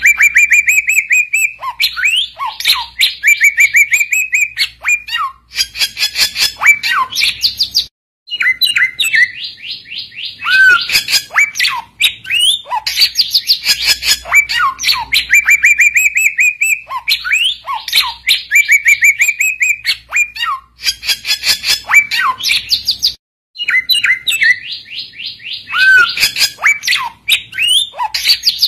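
Loud, busy song of a samyong bird: rapid chattering trills and quick whistled notes, broken by short pauses. The same run of phrases comes round again about every fifteen seconds, as in a looped recording played to call in or train other birds.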